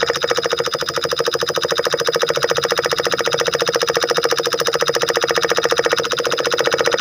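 Miniature diesel engine running steadily with a fast, even beat of firing pulses.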